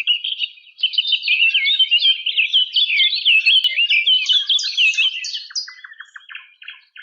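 Birdsong: a dense run of rapid, high chirps and short whistled notes that thins out to a few scattered chirps near the end.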